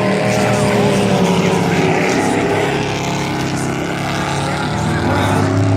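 Engines of several dirt-track race trucks at racing speed, a pack running laps on a quarter-mile dirt oval, their pitches rising and falling over one another. The sound dips slightly a little past the middle, then builds again.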